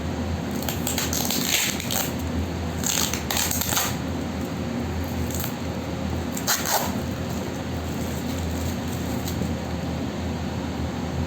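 Parcel packaging being handled and torn open, with intermittent crinkling and rustling of plastic wrap, loudest in a few short bursts, over a steady low hum.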